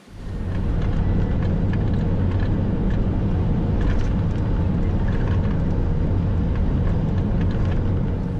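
Steady rumbling road and engine noise of a moving vehicle, heavy in the low end, starting and stopping abruptly.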